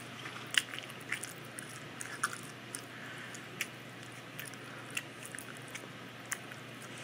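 Close-miked mouth eating a mouthful of carrot cake cupcake with cream cheese frosting: irregular soft clicks and smacks of lips and tongue, roughly one every half second, over a faint steady hiss.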